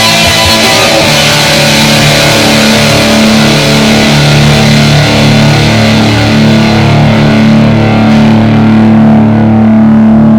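Rock band music led by distorted electric guitar, with steady sustained chord tones; the treble fades away over the second half while the low notes keep ringing.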